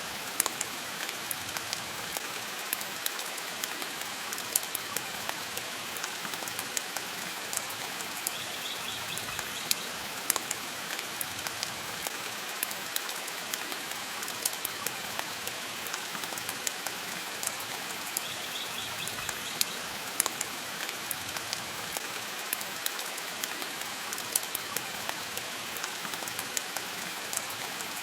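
Steady rain with frequent sharp crackles and pops from a wood fire burning in a stone fireplace.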